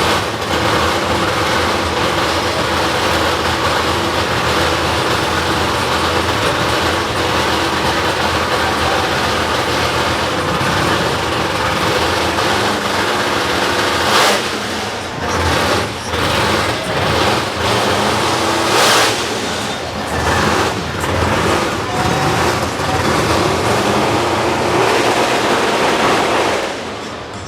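Car engines running loudly, with short louder surges about halfway through and again about two-thirds through.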